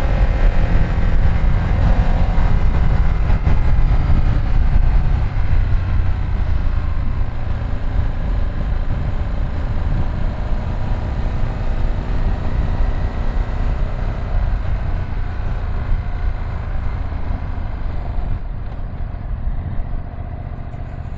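Ducati Streetfighter V2 S's L-twin engine running on the move, with heavy wind rumble on the rider's microphone; the engine note drifts slowly lower and the sound gets quieter toward the end.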